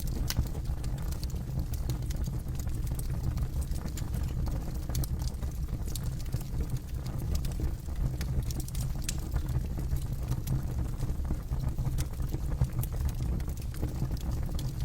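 Campfire burning, with a steady low rumble and scattered sharp crackles and pops from the burning wood.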